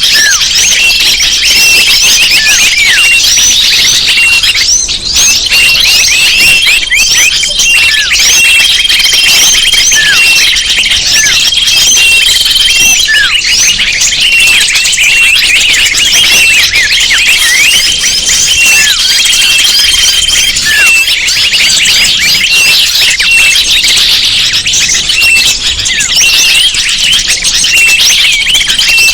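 Dense chorus of many small birds chirping and twittering over one another, with a held high note that breaks off and returns; a bird-lure (pikat) recording made to draw wild birds in.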